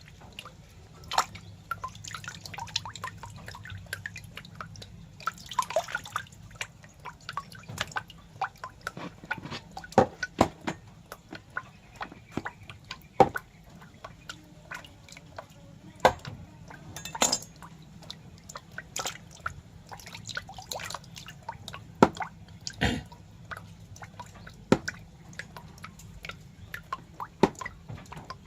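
Irregular wet clicks and drips, sharp ticks at uneven intervals, some much louder than others.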